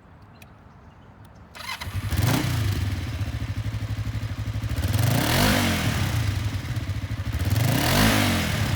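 A 2007 Kawasaki Vulcan 500 LTD's liquid-cooled parallel-twin engine is started after a few faint clicks, catches about two seconds in and settles into an even idle. The throttle is blipped twice, the revs rising and falling each time.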